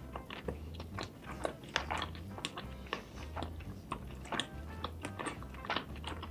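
A person chewing a mouthful of spicy food with her lips closed, making many quick smacks and clicks. Background music with a slow pulsing bass plays underneath.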